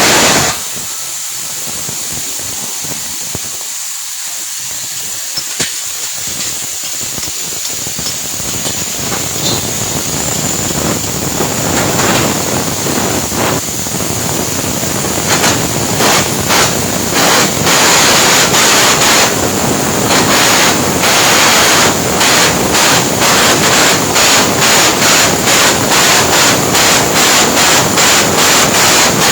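Stick (arc) welding arc crackling and sizzling steadily, growing louder; in the second half it is cut by short regular breaks, about three every two seconds.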